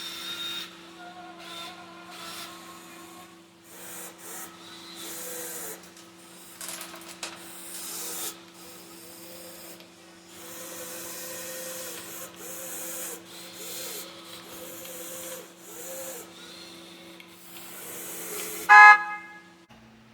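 1:14 scale RC excavator working in gravel and rock, with irregular scraping and rattling over a steady motor hum. A short, loud horn toot sounds near the end.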